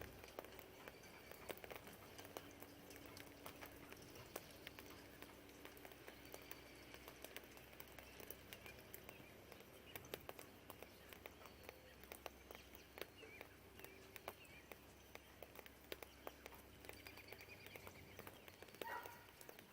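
Rain dripping in sparse, irregular ticks and taps, with faint birds chirping and a low, distant hum of traffic that fades near the end.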